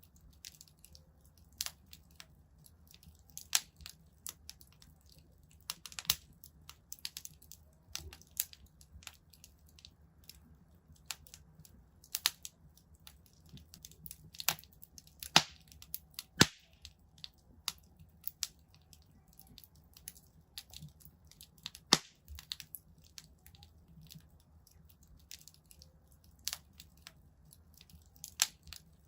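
Wood fire crackling in a fireplace: irregular sharp pops and snaps over a faint low rumble, with a few louder snaps about 15, 16 and 22 seconds in.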